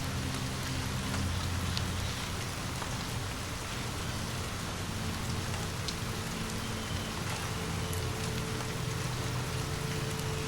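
Steady rain falling, with scattered faint sharp ticks and a low steady drone underneath.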